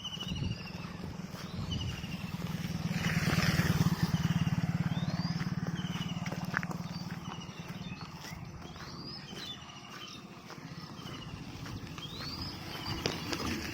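A motor vehicle engine passing, swelling to its loudest about four seconds in and then fading. Over it a bird repeats a short call again and again.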